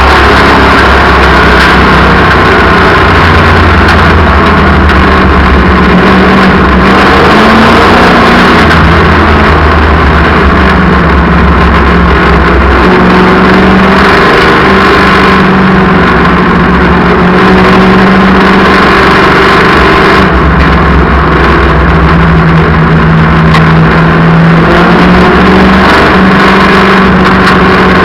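Race car engines running at speed on an oval track, loud throughout, their pitch rising and falling as the cars lap.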